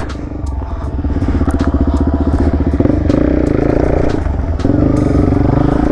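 Suzuki DR-Z400SM single-cylinder four-stroke engine running under throttle, with the revs rising in two pulls about three and five seconds in. Knocks and clatter from the bike climbing a short stair set run through it.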